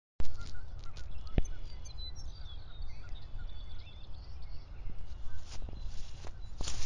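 Several small birds chirping and calling in quick short notes, over a steady low rumble. A single click about a second and a half in, and a few rustles near the end.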